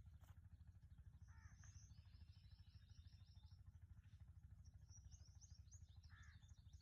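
Faint bird calls: two rapid runs of high chirps, each with a lower call mixed in, over a steady low hum.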